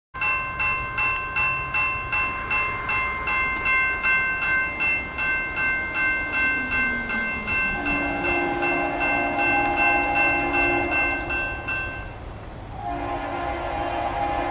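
A railroad warning bell dinging rapidly, about two and a half strokes a second. About halfway in, a multi-chime locomotive horn starts sounding. The bell stops near the end, just as the horn breaks briefly before blowing again.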